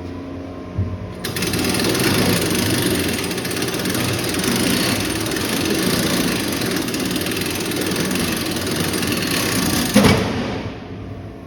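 A loud, steady mechanical grinding rattle starts abruptly about a second in, runs for about nine seconds, and stops with a sharp thump.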